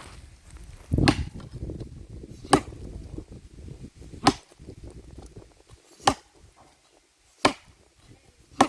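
Six sharp chopping strikes of a hand tool, evenly spaced about one and a half seconds apart.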